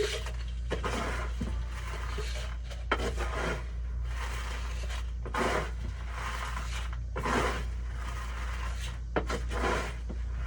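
A litter scoop scraping and sifting through cat litter in repeated strokes, about one every one to two seconds, over a steady low hum.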